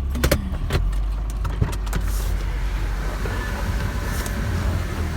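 Car engine running with a steady low rumble, heard from inside the car. Several sharp clicks and knocks come in the first second and one more at about a second and a half in.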